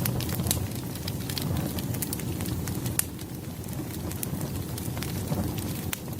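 Burning firewood crackling: frequent, irregular sharp pops and snaps over a low, steady rumble of the flames.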